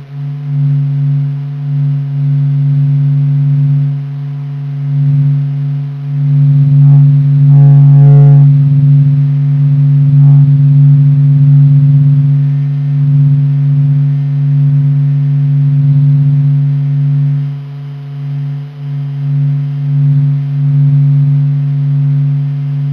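Sonification of the Sun's surface oscillations, made from the Michelson Doppler Imager data of the SOHO observatory: a deep, steady hum with a few overtones above it, swelling and fading irregularly. A brief higher cluster of tones comes in about eight seconds in.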